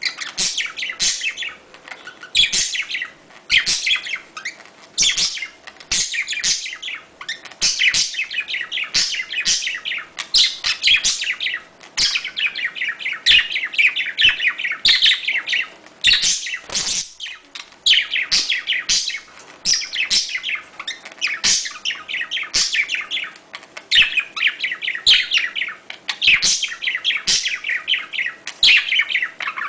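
Budgerigars chirping and warbling in a dense, continuous chatter of quick high notes, the chatter budgies make in breeding condition.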